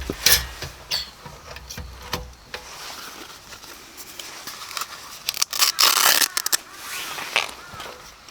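A run of separate clicks, knocks and scraping, as of objects being handled, with a dense rustle about six seconds in and a few short arched chirps near the end.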